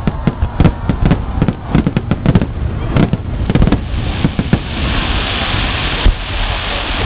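Aerial fireworks: a rapid, irregular series of shell bursts banging, which about four and a half seconds in gives way to a dense, steady crackling hiss.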